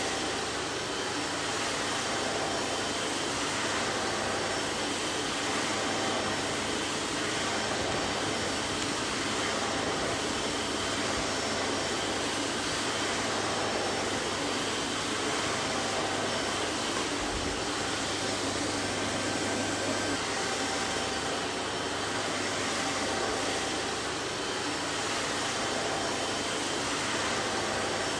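Vacuum cleaner running steadily: a constant whooshing motor and airflow noise with a faint steady hum, no change in pitch or level.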